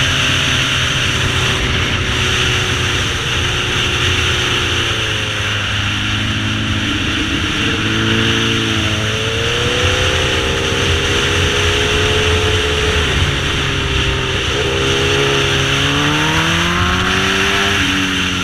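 Sportbike engine running at speed on a track, its pitch dropping and climbing several times as the throttle is rolled off and back on, and rising near the end, over a steady rush of wind noise.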